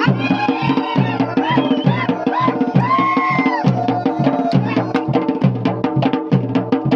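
Dhol and damau drums played together in a fast, steady Garhwali folk rhythm: deep booming dhol strokes recurring about twice a second under dense, sharp stick strokes. A wavering pitched sound rises and falls over the drumming during the first few seconds.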